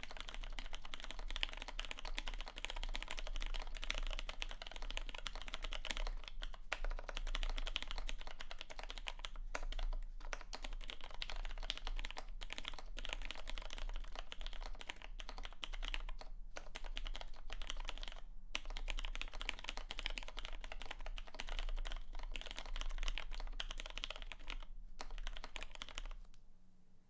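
Fast, continuous typing on a Samice mechanical keyboard with an FR4 plate and Ergo Clear switches, a dense run of key clacks that stops about a second before the end.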